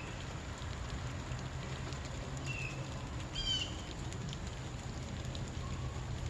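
Bird calls: a few short calls, each falling in pitch, at the start, about two and a half seconds in and again a second later, over a steady outdoor hiss and low hum.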